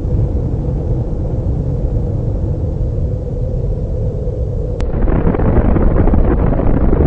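Deep, loud rumble of a large explosion that starts abruptly. About five seconds in there is a click, and it turns into a harsher, crackling rumble.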